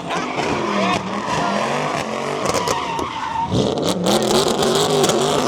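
Car doing donuts: the engine revs up and down while the rear tires squeal and skid on the pavement.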